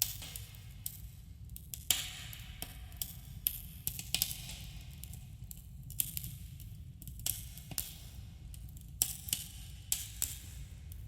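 Wood campfire crackling, with irregular sharp pops and snaps over a steady low rumble and a slight cave echo.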